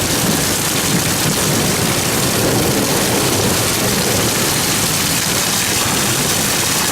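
Heavy storm rain pouring down in a steady, loud hiss.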